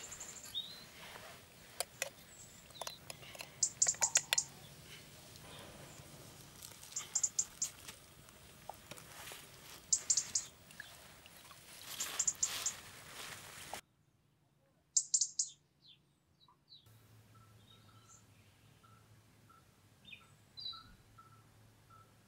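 Forest birds chirping in short, high bursts of a few notes, repeating about every three seconds, over scattered clicks and crackles from the campfire.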